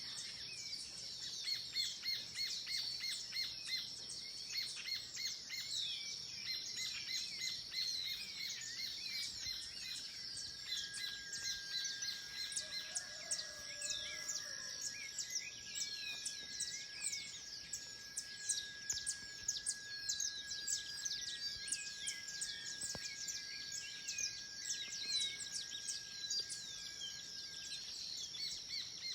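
Forest bird chorus: many birds chirping and calling over one another, with a steady high-pitched tone underneath throughout and a lower steady tone held for much of the middle.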